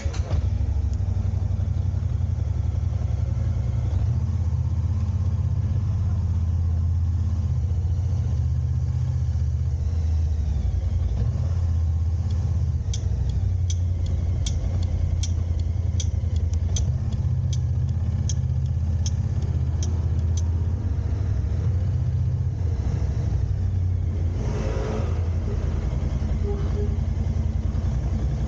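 A car being driven, heard from inside: a steady low engine and road rumble. Midway, a regular ticking comes in at about two ticks a second for roughly seven seconds, and a brief rush of noise passes near the end.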